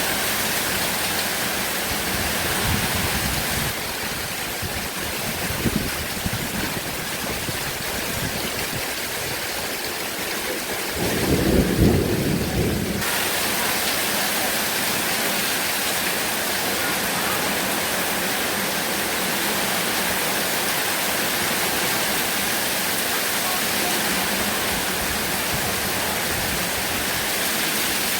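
Heavy rain falling steadily, an even hiss. A low rumble of thunder swells and fades about eleven to thirteen seconds in, with fainter low rumbles earlier.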